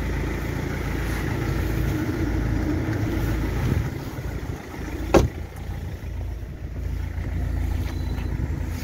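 Rover 75 engine idling steadily, with a single sharp latch clunk from the car about five seconds in.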